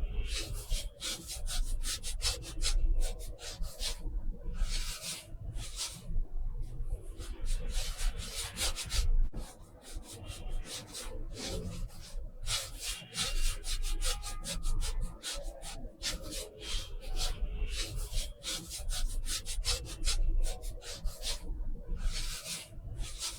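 Art tool rubbing across textured watercolor paper in quick runs of short strokes, broken by brief pauses.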